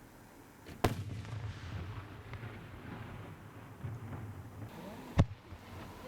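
Fireworks shells bursting overhead: two sharp booms about four seconds apart, the second the louder, with a low rolling rumble after the first.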